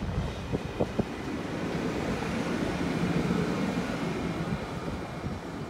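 ÖBB Railjet train pulling out slowly, its carriage wheels clicking a few times over rail joints in the first second. The ÖBB Taurus (Class 1116) electric locomotive at the rear then rolls past with a steady running rumble and hum around the middle, fading toward the end.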